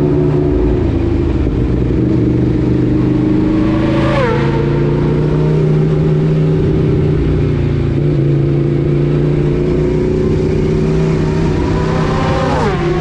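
Motorcycle engine pulling hard under acceleration, its pitch climbing steadily and dropping sharply at two gear changes, about four seconds in and near the end.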